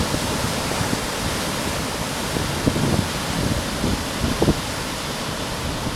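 Steady roar of heavy ocean surf breaking, with wind buffeting the microphone in low gusty thumps.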